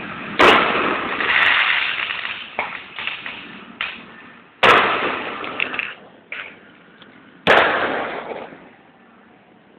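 Fireworks going off: three loud bangs, about every three to four seconds, each trailing off in a crackling hiss, with smaller pops and cracks in between.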